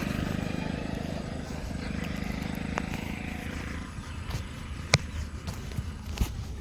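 A passing motor vehicle's engine rumbling and fading away over about four seconds, followed by two sharp knocks.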